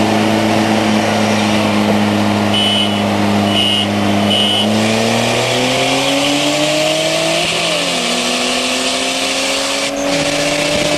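Scion tC's four-cylinder engine held at steady revs, then accelerating hard from about five seconds in: the revs climb, drop at an upshift a little past halfway, and climb again. Three short high beeps, about a second apart, come just before the revs start rising.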